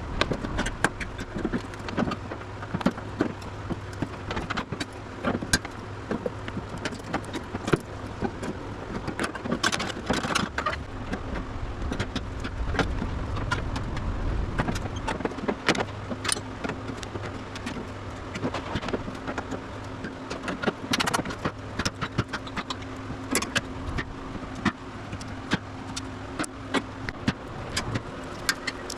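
Irregular sharp metallic clicks and knocks over a low steady hum, from work removing the old steel bonnet-seal strips on a 1967 VW Beetle body.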